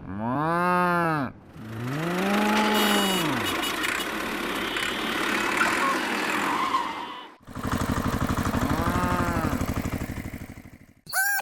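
Small engine of a mini tractor idling with a steady chug, revving up and back down three times. The sound breaks off abruptly twice, like edit cuts.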